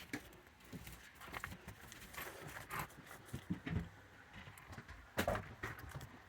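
Raccoons moving about and feeding on a wooden deck: scattered light taps, scuffs and knocks of feet and of food trays, with one louder knock about five seconds in.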